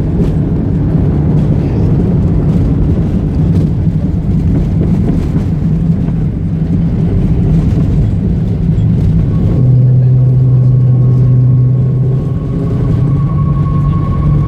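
Cabin noise of a Boeing 737-800 during landing: a loud, steady rumble of the engines and airframe. About ten seconds in, a low hum and a thin higher whine join it.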